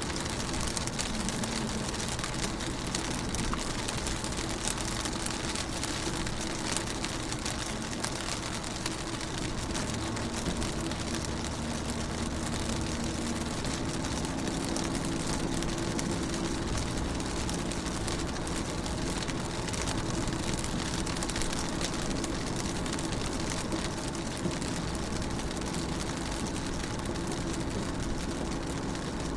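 Rain falling steadily on a car's window, a constant wash of many small drops ticking on the glass, with a low steady hum underneath.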